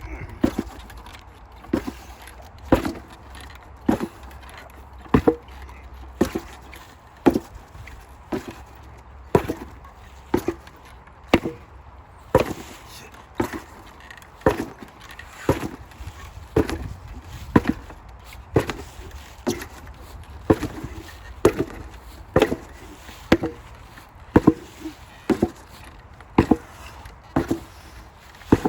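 An 8 lb sledgehammer striking a target again and again in steady drill strikes, about once a second, each blow a sharp knock with a short ring.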